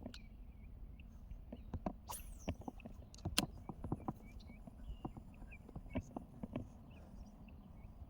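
Irregular light knocks and clicks of gear being handled in a kayak, over a low rumble, with birds chirping now and then.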